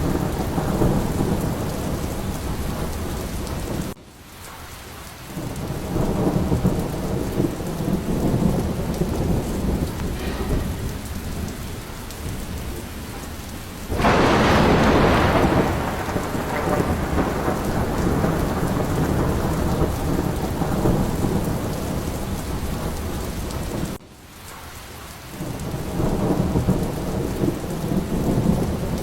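Steady rain with rolling thunder rumbling underneath. About halfway through a louder, sharper thunderclap breaks and fades over a few seconds. Twice the whole sound drops away suddenly and swells back within a second or two.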